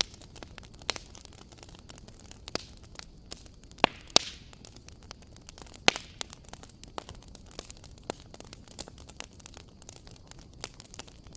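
Wood fire crackling, with irregular small pops and clicks over a soft hiss and a few sharper snaps about four and six seconds in.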